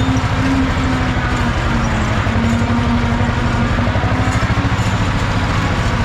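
Ursus C-330 tractor's two-cylinder diesel engine running steadily, with a rapid, even pulse.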